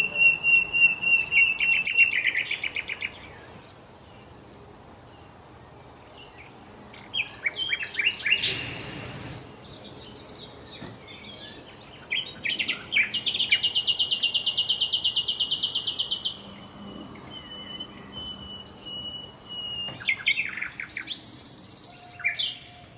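Songbirds singing: several rapid, evenly pulsed trills and chirping phrases, the longest trill lasting about three seconds midway through.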